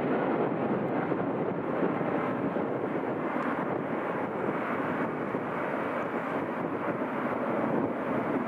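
Jet airliner's engines running, a steady noise with no distinct whine or change in level.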